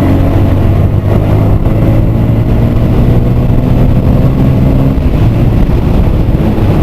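Hero Super Splendor BS6 motorcycle's 125 cc single-cylinder engine running steadily while riding, with an even engine note that thins out about five seconds in.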